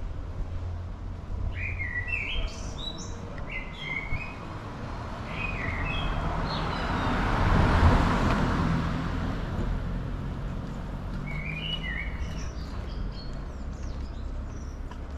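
Small birds chirping in short repeated phrases, twice with a pause between. A passing vehicle swells and fades under them, loudest about eight seconds in.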